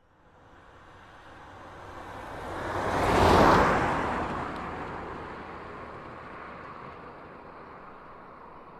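Samsung Galaxy notification sound effect: a long whoosh of noise with no clear pitch that swells up to a peak about three and a half seconds in, then slowly fades away.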